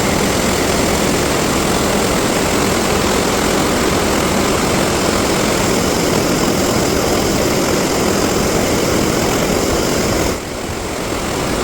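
Floodwater from opened dam spillway gates rushing in a loud, steady roar, with a brief dip in level near the end.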